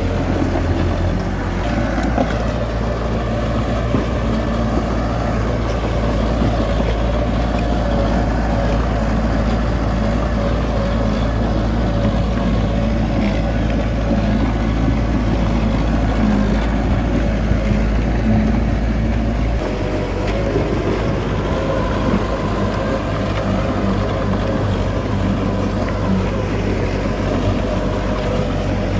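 Heavy diesel engine of earthmoving machinery running steadily. The low engine note shifts about a second in and again about two-thirds of the way through, as the load or throttle changes.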